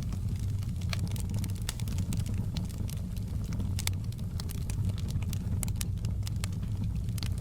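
Wood fire crackling, with many small, irregular sharp pops over a steady low rumble of burning.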